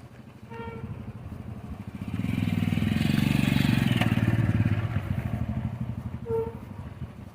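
A small engine, such as a motorcycle's, passes close by. Its pulsing hum grows louder about two seconds in, holds, then fades away.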